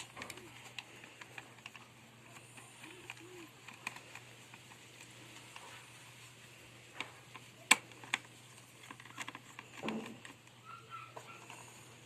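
Scattered clicks and light taps of plastic parts and circuit boards being handled while a washing machine's control panel is taken apart, the sharpest click about two thirds of the way in, over a faint steady low hum.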